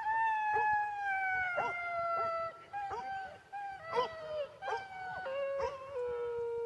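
Dogs howling in long, drawn-out notes that slowly drop in pitch, with short yips and barks breaking in over the howls throughout.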